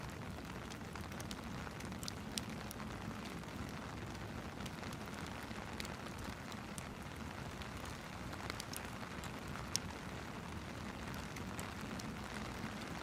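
Steady rain hiss mixed with a fireplace's crackling, scattered small pops and a couple of louder snaps.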